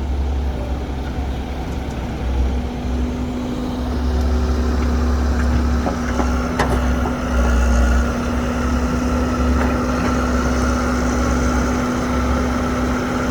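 Heavy diesel machinery running steadily as an excavator loads a dump truck: a deep engine rumble with a steady hum, and a fainter whine that comes in about four seconds in.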